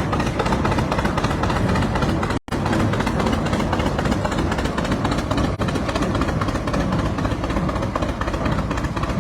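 Engine of an early Emerson-Brantingham Big 4 prairie tractor, a big four-cylinder gas engine, running steadily as the tractor passes in a parade. The sound cuts out very briefly about two and a half seconds in.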